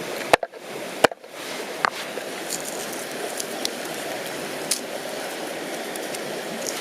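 Steady rushing of a river flowing, with a sudden drop-out and two sharp clicks in the first second or so, and a few faint ticks afterwards.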